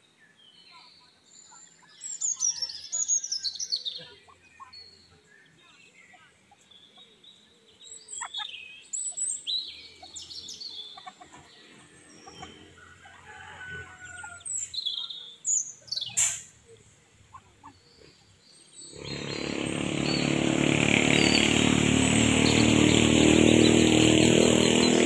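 Ducklings peeping in scattered bursts of high chirps. About three-quarters of the way through, a small engine comes in loud and runs steadily, drowning them out.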